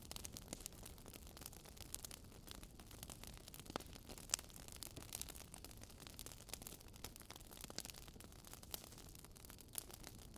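Wood fire crackling, with scattered sharp pops and snaps at irregular intervals, a few louder ones about four seconds in and near the end, over a faint, steady low rush.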